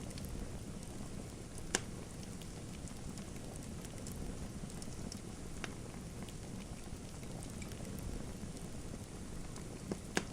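Fire crackling steadily with a low rushing hiss, broken by a few sharp pops, the loudest about two seconds in and a close pair just before the end.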